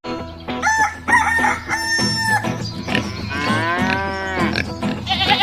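Farm animal calls, a rooster crowing among them, in a run of several pitched calls that rise and fall.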